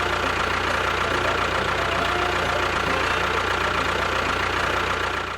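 Engine running steadily at an even idle, with a low hum under it.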